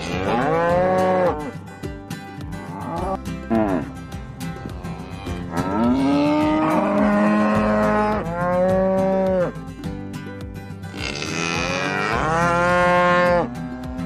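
Several Holstein-Friesian cattle mooing in turn: about five long calls, some overlapping, a few rising and then falling in pitch.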